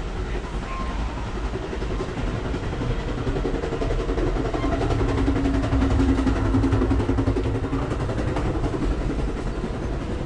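Moving passenger train heard from inside the car: a steady low rumble and rattle of the railcar running over the track. The sound grows louder for a few seconds in the middle, with a droning tone, while passing through the connection between cars.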